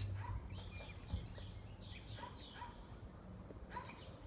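Small birds calling around a backyard feeder: short chirps repeating about twice a second, with a few quick falling notes, over a faint low hum.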